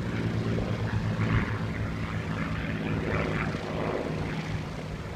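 Piston-engined propeller warbird droning overhead with a steady engine note. The sound slowly fades as the aircraft moves away.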